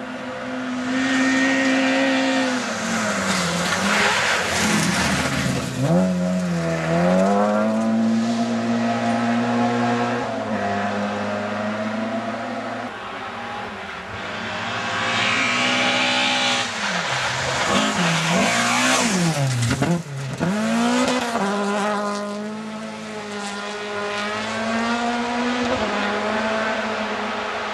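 Rally car engine running hard out of sight, its revs repeatedly climbing and falling with gear changes and braking, twice dropping steeply before picking up again.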